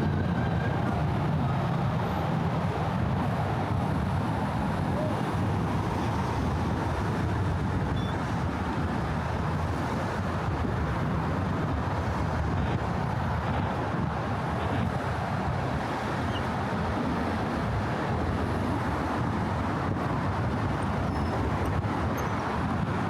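Steady, continuous traffic noise from cars driving across the Brooklyn Bridge roadway.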